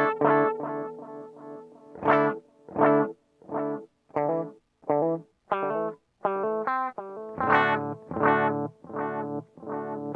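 Distorted electric guitar played through a TC Electronic Flashback delay pedal. A chord rings out at the start, then a steady run of short, choked chord stabs follows about every two-thirds of a second.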